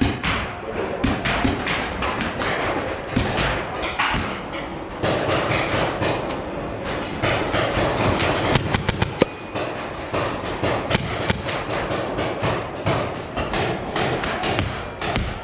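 Paintball markers firing and paintballs thudding against walls: a dense, irregular run of sharp pops and knocks, with a cluster of the sharpest cracks about nine seconds in.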